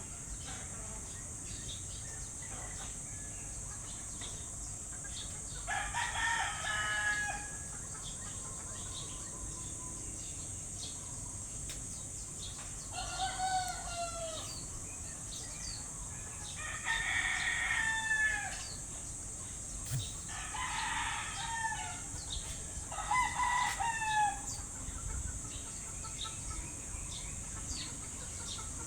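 A rooster crowing five times at intervals of a few seconds. Each crow lasts about a second and drops in pitch at the end. A steady high hiss runs behind the crows.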